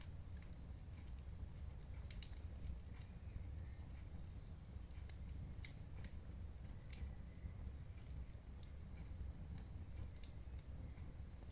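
Wood fire burning in a fireplace: irregular sharp crackles and snaps over a steady low rumble of the flames.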